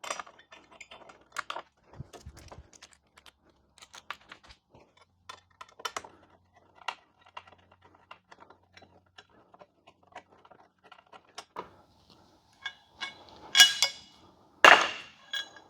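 Scattered small metal clicks and taps of a hex key and bolts being worked as a motorcycle grab rail is unbolted, with two louder metal clanks near the end.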